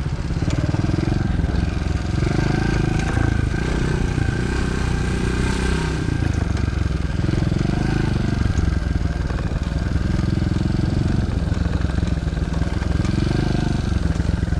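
Moto Pro DB14 110cc single-cylinder four-stroke pit bike engine being ridden, its pitch rising and falling several times as the throttle is opened and eased off.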